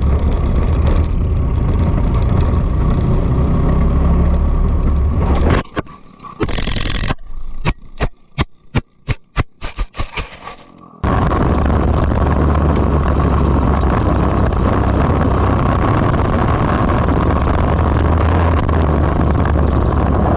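Onboard go-kart camera sound: a kart engine at racing speed under loud wind noise. About five and a half seconds in, the crash breaks it up into a burst of noise and a quick run of sharp knocks and scrapes. From about eleven seconds the engine and wind noise return, loud and steady.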